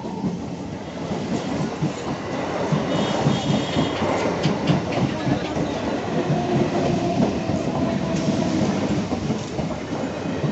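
An EMU electric local train's coaches pass close by at speed, with steady wheel rumble and the clickety-clack of wheels over rail joints.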